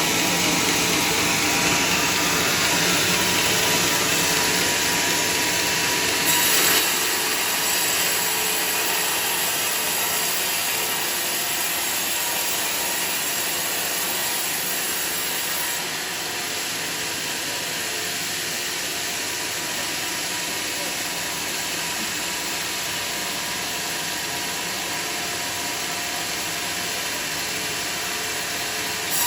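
Sawmill machinery running steadily with a dense mechanical noise, likely a saw cutting teak. There is a brief louder surge about six seconds in, and the level eases slightly about halfway through.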